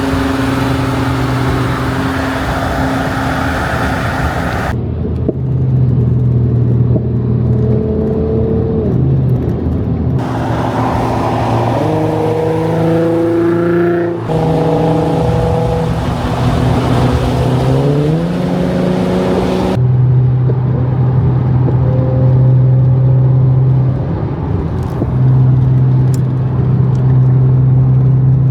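Car engines running and revving across several short clips cut together, the pitch climbing as the engine revs up twice in the middle.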